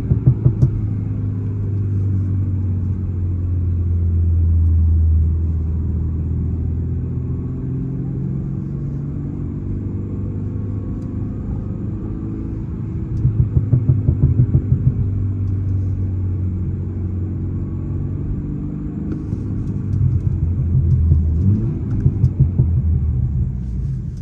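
Stage 1 tuned BMW 330i's 2.0-litre turbo four-cylinder (B48) and road noise heard from inside the cabin while driving: a steady low rumble, with two short stretches of rapid pulsing, one at the start and one about halfway through.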